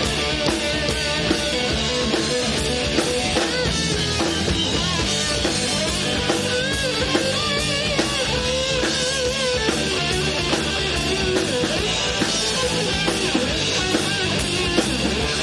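A live rock band playing: electric guitars over a drum kit keeping a steady beat, with a wavering melody line on top.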